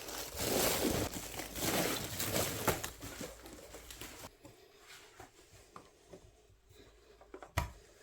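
Packaging rustling and crinkling for about four seconds, then it goes quiet apart from light handling clicks and one sharp knock near the end.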